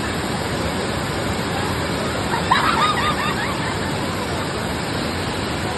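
Steady rush of a waterfall, with a person's voice heard briefly about two and a half seconds in.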